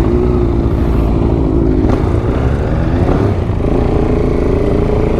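KTM 690 Duke R's single-cylinder engine running under way, with wind rushing over the microphone. The engine note holds, sags briefly about three seconds in, then climbs again as it accelerates.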